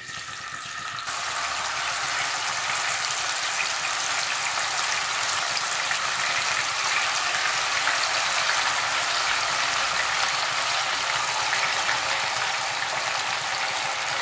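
Marinated chicken breast pieces sizzling in hot oil in a pan as they are dropped in by hand. The sizzle builds over the first second as more pieces go in, then holds steady.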